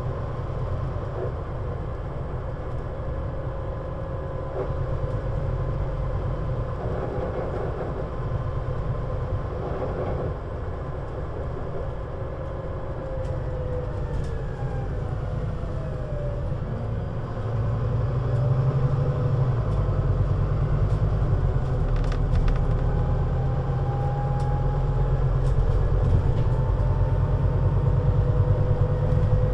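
Scania Citywide LFA city bus (CN320UA 6x2/2) running while driving, its engine and drivetrain giving a low rumble with a whine. The whine drops in pitch about halfway through, then the bus pulls away harder, louder from around two-thirds in, with the whine slowly rising.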